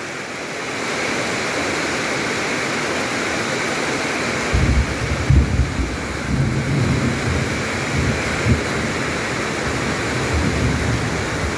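Heavy rain pouring steadily, with a low, uneven rumble coming in about four and a half seconds in and again briefly near the end.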